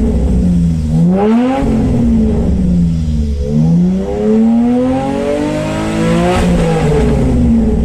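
Hyundai Tiburon with an ARK DT-S aftermarket exhaust, its engine revving up and dropping back: a short rise about a second in, then a long climb in pitch from about three and a half to six and a half seconds before the revs fall away.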